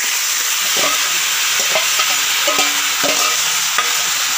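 Marinated chicken, potatoes and whole onions hitting hot mustard oil in a metal wok and sizzling, with a metal spoon scraping and knocking against the steel bowl and wok as the food is pushed in; several short metallic knocks ring out between about 1 and 4 seconds in.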